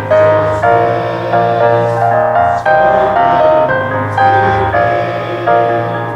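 Keyboard instrument playing slow instrumental music: held bass notes under chords, with the melody moving to a new note about once a second.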